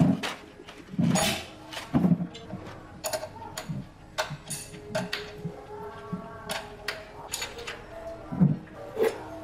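Irregular knocks and clinks, like hand tools on metal parts, with a few heavier thumps near the start and near the end, over faint background music.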